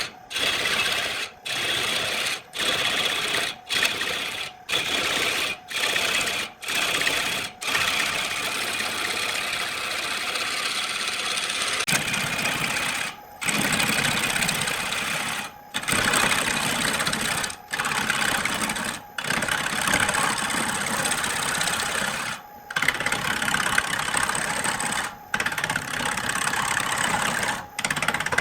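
Wood lathe running, with a turning tool cutting the spinning wood, and the sound breaking off for a moment again and again.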